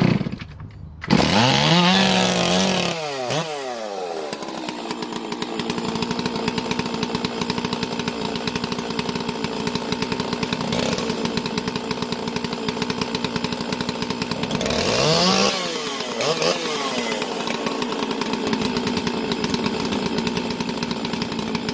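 Stihl 044 and 046 two-stroke chainsaws cold-starting: an engine catches about a second in, revs up and back down, then settles into a steady idle. Another brief rev rises and falls about fifteen seconds in.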